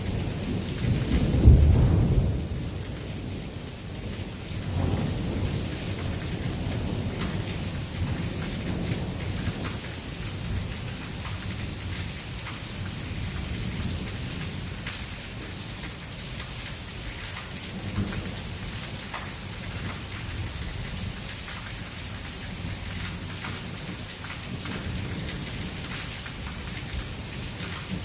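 Heavy rain pouring steadily during a thunderstorm. A loud, low rumble of thunder swells and fades about a second or two in, with a smaller rumble near five seconds, then steady rain.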